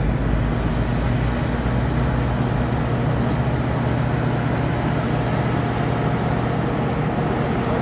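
A truck engine running steadily with a low, even hum and no change in pitch.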